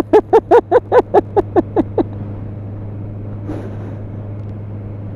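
A person laughing in a quick run of about a dozen 'ha's that fades out about two seconds in, over the steady drone of a motorcycle being ridden.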